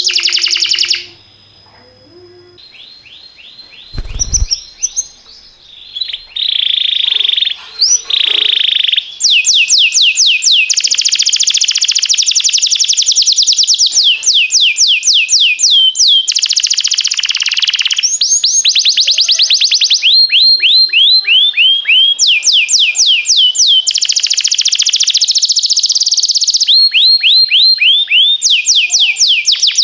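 Domestic canary singing in long rolling phrases of fast, repeated, downward-sweeping notes, switching from one repeated note to another every second or two. The song briefly stops about a second in. A short low thump comes about four seconds in.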